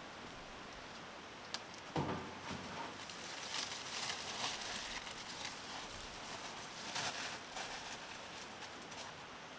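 Rustling and handling noises with small clicks, and a single knock about two seconds in, over a steady outdoor background.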